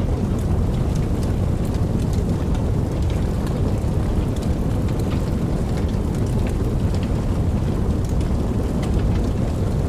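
Steady rainfall: a dense hiss with a deep, continuous low rumble underneath and scattered sharp ticks of individual drops.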